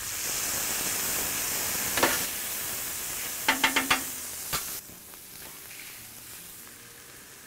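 Chimichurri sauce sizzling hard in hot beef tallow on a steel flat-top griddle while a metal spatula stirs and scrapes it, with a quick run of sharp scrapes about three and a half seconds in. Past the halfway point the sizzle drops to a quieter, steady frying hiss as a corn tortilla is pressed into the sauce.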